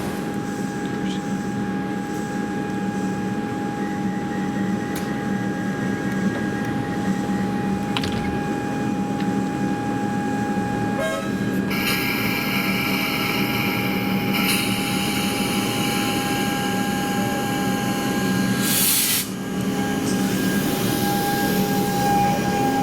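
Electric suburban train running through the station, with a steady whine. The sound changes about halfway through, with higher tones added, and a short hiss comes near the end.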